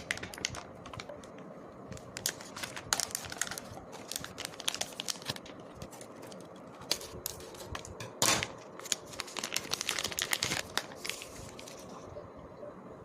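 Plastic snack packets of a Haldiram's Fatafat Bhel kit crinkling and being torn open, a dense irregular crackle with one stronger burst a little past eight seconds in.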